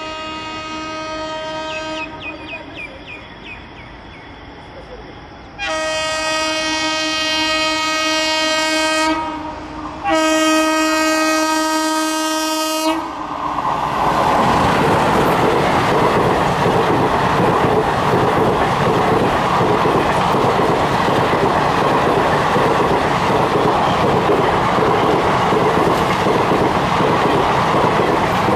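Indian Railways electric locomotive hauling a passenger train. Its horn ends a blast about two seconds in, then gives two long blasts as the train approaches. After that the train passes close at speed: a loud, steady rumble with fast, regular clatter of wheels over the rail joints.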